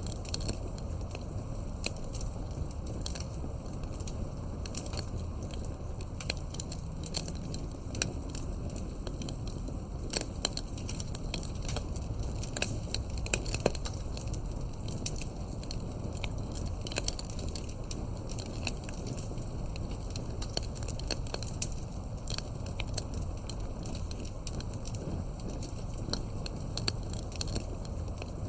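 Campfire crackling: irregular sharp pops and snaps from burning wood over a steady low rumble of flame.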